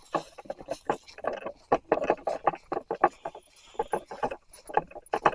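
Footsteps crunching along a woodland trail, a quick irregular run of steps.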